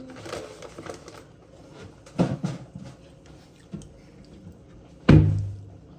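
Kitchen handling sounds: a brief rustle at the start, a few sharp knocks a couple of seconds in, and a heavy thud with a short low ring near the end, like something set down hard or a cupboard shutting.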